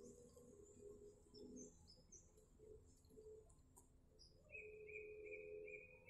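Faint bird calls: thin, high chirps with short gliding notes, then a quick run of about five short repeated notes near the end.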